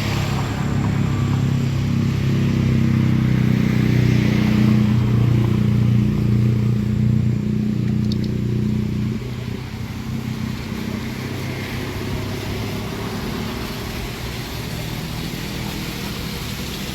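A motor vehicle's engine running close by. It is loudest in the first half and drops away suddenly about nine seconds in, leaving a lower steady road noise.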